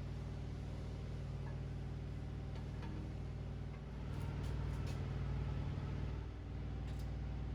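A steady low motor hum with a few faint ticks.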